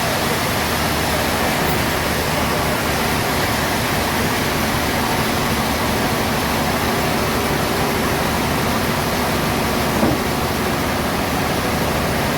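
Sawmill machinery running: a loud, steady wash of noise with a faint hum underneath, and a small knock about ten seconds in.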